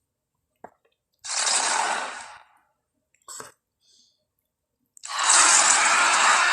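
Film creature sound effects for a giant mutant crocodile: two breathy, hissing exhalations, a short one about a second in and a longer, louder one near the end, with a few short clicks between.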